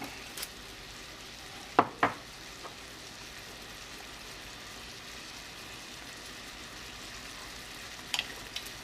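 Diced vegetables frying in butter in a pot, a steady sizzle, with a few short sharp taps about two seconds in and again near the end.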